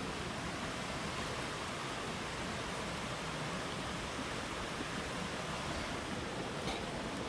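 Steady rushing of water, an even hiss with no changes, and one faint click near the end.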